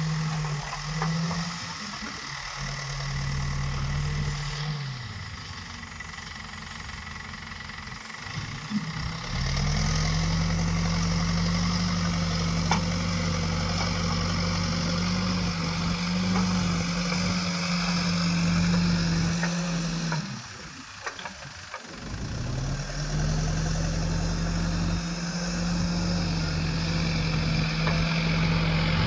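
Backhoe loader's diesel engine running under work, holding high revs for long stretches and twice dropping back to a lower note before climbing up again.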